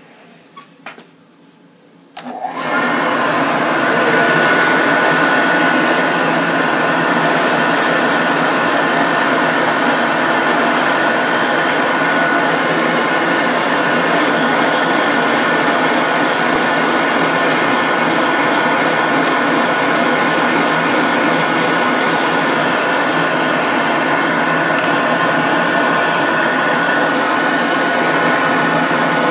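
Dog grooming dryer switched on about two seconds in, then blowing steadily with a faint whine, drying freshly dyed ear fur.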